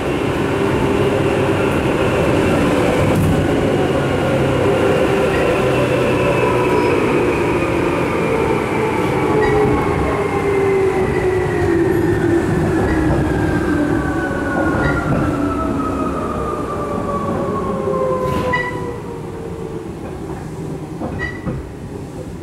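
Tokyu 8500 series commuter train heard from inside the car, its motor and gear whine falling steadily in pitch as the train slows. A few clicks sound from the wheels, and the noise drops away near the end.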